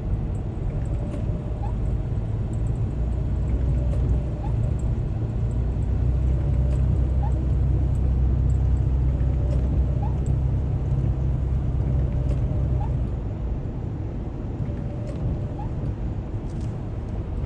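Road and engine noise inside a moving car: a steady low rumble that swells for several seconds in the middle, with a faint short rising squeak about every second and a half.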